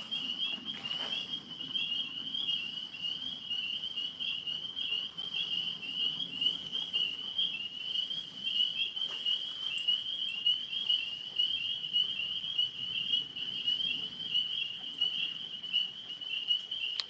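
Tree frogs calling from the trees overhead in a continuous, high, rapidly pulsing trill.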